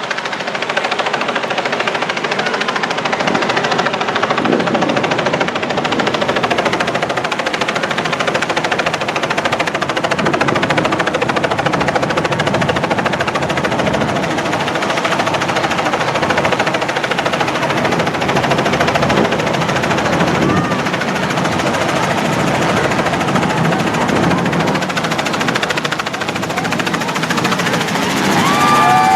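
Loud, steady engine noise with a rapid rattle running through it.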